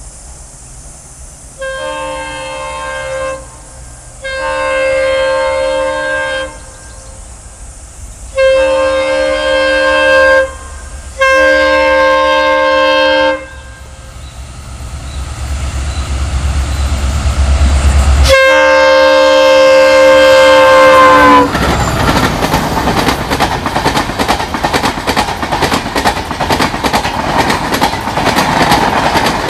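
Diesel locomotive horn sounding four blasts a second or two each, then a longer fifth blast whose pitch drops as the locomotive passes, over the growing rumble of the engine. The train's wheels then clatter rapidly over track joints as the coaches run past.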